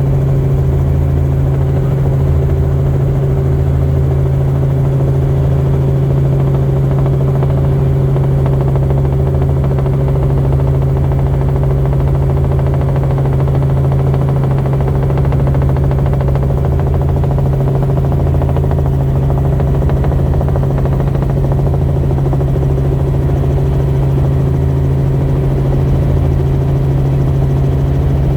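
Helicopter in flight: the rotor and engine make a loud, steady drone, a strong even hum with an uneven low throbbing beneath it.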